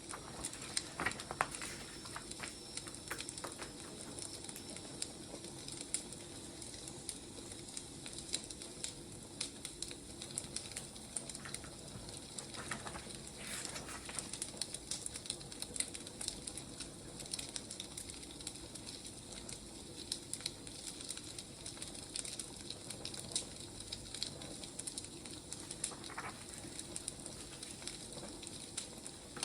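Burning firewood crackling and popping steadily, with scattered sharp snaps over a soft hiss.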